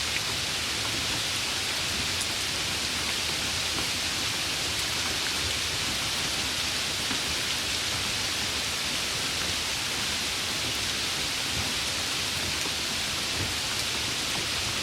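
Heavy rain falling steadily, an even hiss of rain with faint scattered drop ticks.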